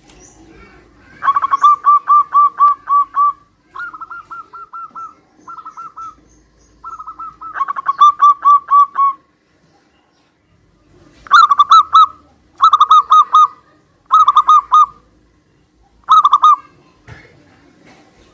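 Zebra doves (perkutut) cooing in trains of rapid, evenly pulsed notes, about eight phrases in all. Fainter, slightly higher phrases answer the louder ones, as birds calling back and forth.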